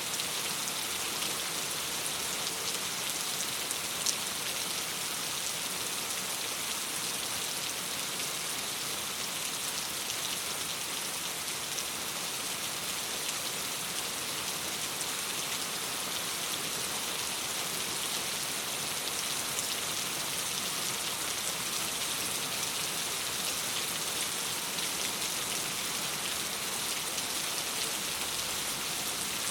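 Steady rain falling against a window: an even hiss with fine scattered drop ticks, and one sharper tick about four seconds in.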